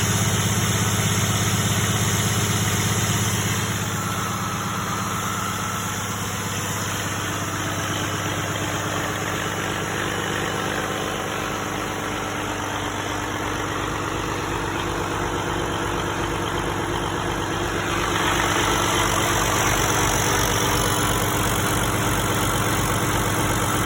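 PACCAR MX13 inline-six diesel engine idling steadily. It is a little quieter from a few seconds in until about 18 seconds, then louder again.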